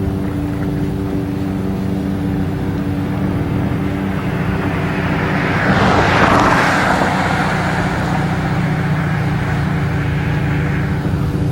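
BMW R1200C's boxer twin idling steadily through an Edhaust aftermarket exhaust, with a louder rushing swell about six seconds in.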